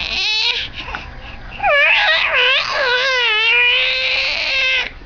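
Baby vocalizing in a high, wavering, cry-like voice: a short sound at the start, then one long warbling wail of about three seconds from about a second and a half in.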